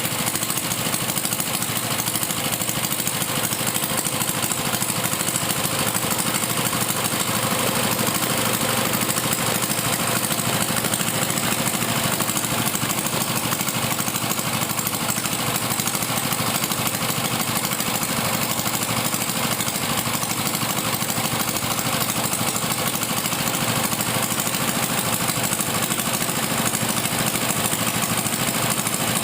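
Plate compactor's small engine running steadily with no change in speed. The engine smokes heavily, which the uploader puts down to a leaking valve stem seal.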